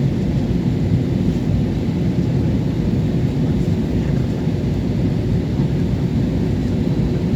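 Steady low rumble of a jet airliner in flight, heard from inside the cabin: engine drone and airflow noise.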